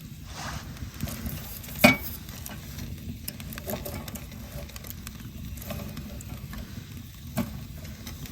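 Open wood campfire crackling, with scattered small ticks and two sharp, loud pops: one about two seconds in, one near the end.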